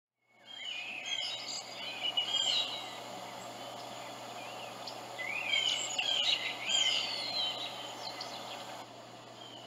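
Songbirds chirping and singing in quick phrases over steady background noise, in two bouts: about half a second in, and again around the middle.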